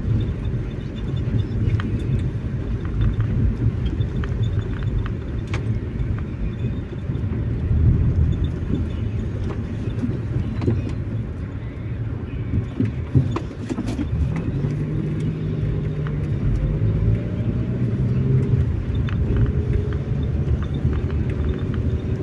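Car driving, heard from inside the cabin: a steady low road and engine rumble with a few light ticks. About two-thirds of the way in, the engine note rises and then holds.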